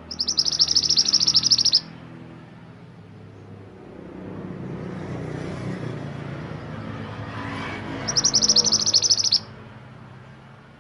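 A mantenan gunung songbird sings two rapid, high trills, one right at the start and one about eight seconds in, each lasting under two seconds. Between them a low rushing noise swells and fades.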